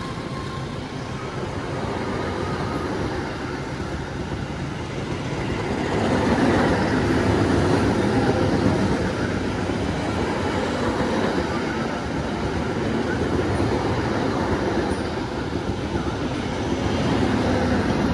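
Train passing through at speed: a steady rumble of wheels on rail that swells about six seconds in.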